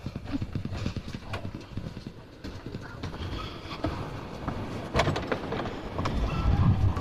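Footsteps walking over the ground at an irregular pace. Wind begins to buffet the microphone near the end.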